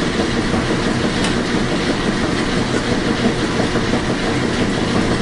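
Washing machine running: a steady rumbling whoosh with faint irregular clicks.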